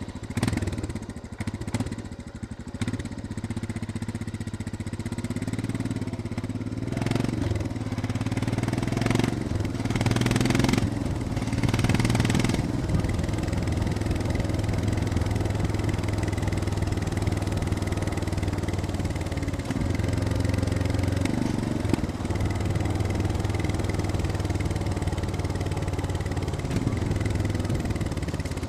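Royal Enfield Scram 411's single-cylinder engine running just after starting: it settles unevenly for the first few seconds, shifts in pitch a few times, then runs with a steady note.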